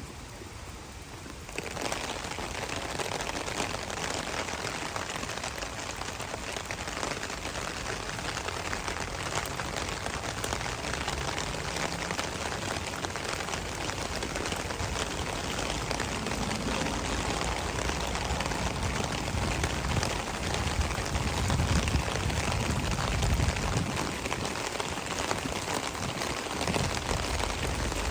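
Steady rain falling, a continuous hiss that gets louder about two seconds in. A low rumble joins it in the second half.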